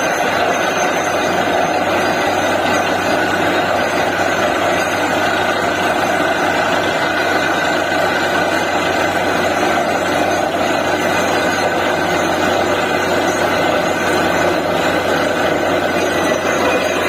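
A DTH borewell drilling rig running steadily and loudly: a heavy diesel engine and machinery noise with a steady hum and no pauses.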